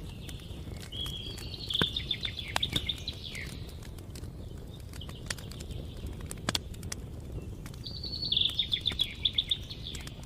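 A small bird singing a short, fast trilled phrase twice, about seven seconds apart, over a steady low rumble with scattered sharp clicks.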